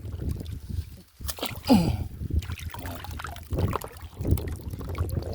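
Water sloshing and splashing around, with a short falling pitched sound about a second and a half in.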